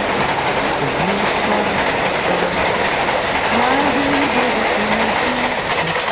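Train running along the rails, a loud steady rumble and wheel clatter, with a song's melody heard over it.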